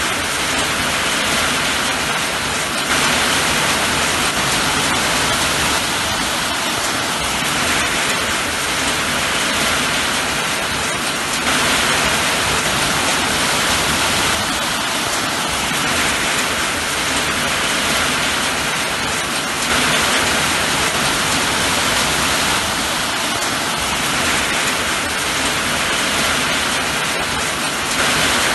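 Steady rain falling, a dense even hiss that swells slightly about every eight seconds.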